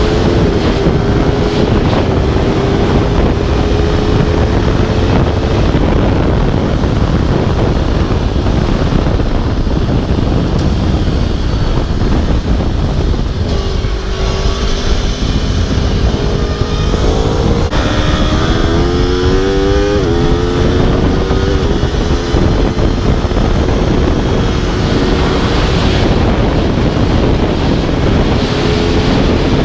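Aprilia RSV4 sportbike's V4 engine running at speed on a track, under heavy wind rush over the microphone. Past the middle the engine pitch climbs and drops twice as it revs and shifts up.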